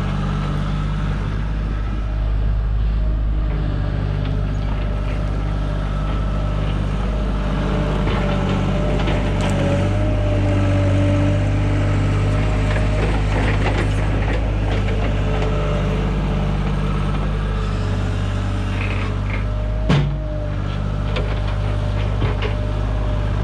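A heavy machine's engine running steadily at a constant speed, with one sharp knock about 20 seconds in.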